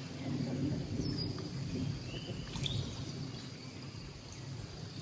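Low rumbling outdoor background noise with two brief, faint bird chirps, one about a second in and one about two and a half seconds in.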